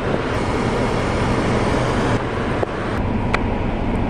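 Steady rumble and hiss of road vehicle noise, with a couple of faint clicks.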